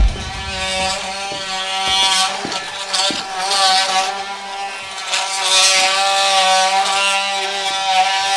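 Electric power tool running steadily at an even pitch during chimney demolition, with a few sharp knocks of masonry.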